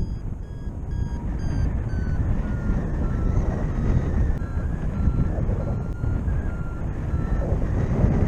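Paragliding variometer beeping, short beeps about three a second, the climb tone signalling lift; the pitch of the beeps drops a little after a couple of seconds as the climb weakens. Under it, steady wind rushing over the microphone in flight.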